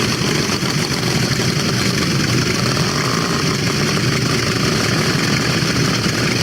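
Motorcycle engine running steadily, over an even hiss.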